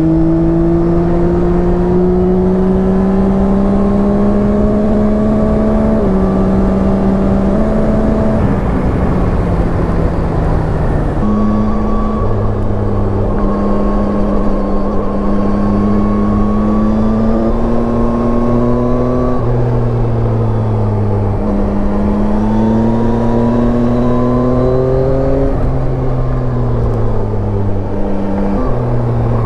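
Yamaha Tracer 9's three-cylinder engine under way on the road, with wind rush. The engine note climbs in each gear and steps at a series of gear changes. It sags for a few seconds about a third of the way in, then jumps up as if on a downshift.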